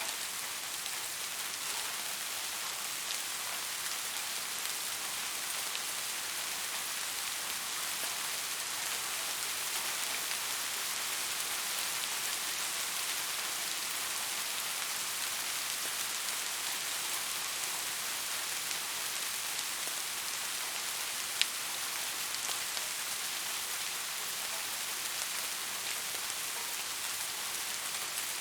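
Steady rain falling, an even hiss with faint scattered drop ticks and one sharper tick about three-quarters of the way through.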